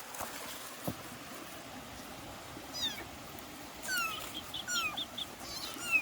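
Kittens mewing: four short, high-pitched mews, each falling in pitch, spread over the last half. A quick run of short high peeps sounds between two of the mews.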